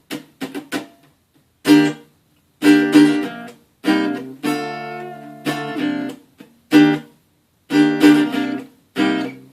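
Acoustic guitar strummed: a few short, choked strokes in the first second, then full chords rung out in a steady rhythm.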